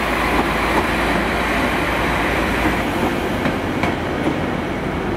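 Transport for Wales Class 197 diesel multiple unit running past at close range: a steady rumble of engines and wheels, with a few clicks from the wheels over rail joints about three and a half seconds in.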